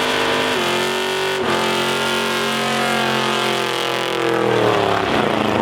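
Car engine held at high revs during a burnout. The pitch steps down about half a second in, shifts again near a second and a half, then the revs fall away near the end.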